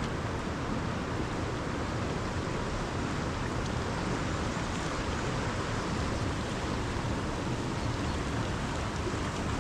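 Steady rushing noise, even throughout, with no distinct knocks or calls.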